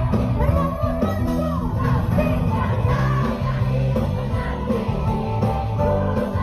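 Live pop band playing over a concert sound system, with a woman singing a held, gliding melody over a strong bass line.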